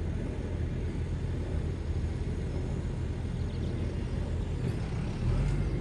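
Tractor engine running steadily with a low, even note, growing a little louder near the end.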